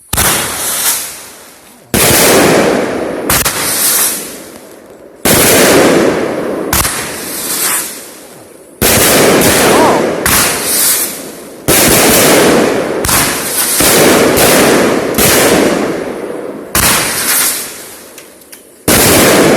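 A consumer firework cake (a 21-shot repeater) firing shot after shot, a sharp bang about every one to two seconds, each trailing off over a second or so.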